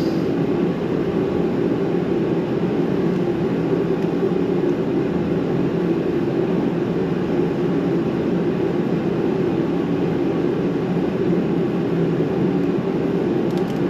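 Steady low mechanical drone of a running blower, unchanging throughout, with most of its weight in the low-middle range.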